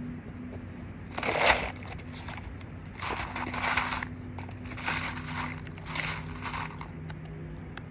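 Four rough scraping, crunching bursts of half a second to a second each, the loudest about a second in: asphalt roofing shingles being handled and scraped against the roof.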